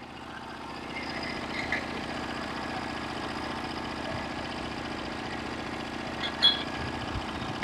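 Engine of a Norwood HD36v2 portable bandsaw sawmill running steadily, rising a little about a second in, with a brief clink about six seconds in.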